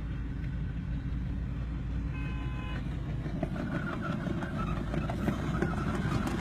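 Steady road and engine noise from a vehicle driving on a freeway, with one short horn toot about two seconds in.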